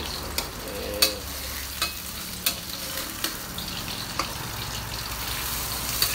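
Mushrooms sizzling as they fry in hot oil in a wok, with a metal spatula clinking and scraping against the wok about seven times as they are stirred.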